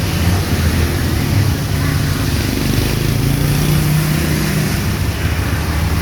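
Heavy rain falling steadily. A low engine hum from a passing road vehicle rises through the middle of it.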